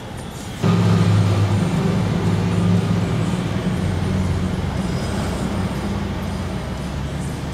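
Car engine and road noise heard from inside the car as it climbs a very steep street. The engine's low hum comes in suddenly under a second in, then eases off slightly.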